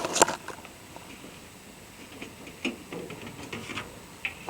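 Handling noise: a couple of sharp clicks right at the start, then a few scattered light clicks and taps.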